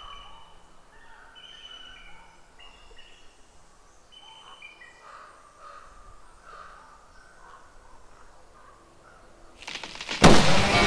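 Birds calling: a steady run of short chirps and calls over faint outdoor background noise. Near the end, a rising rush leads into a sudden loud blast that rings on with many sustained tones.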